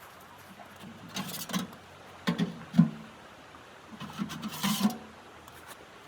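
Irregular short knocks and clunks in three clusters, the loudest just under three seconds in.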